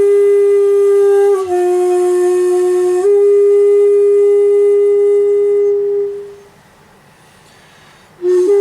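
Shakuhachi playing long held notes. A steady note dips a step lower for about a second and a half, returns, then fades away about six seconds in. After a pause of about two seconds, a new note begins near the end with a short scoop up in pitch.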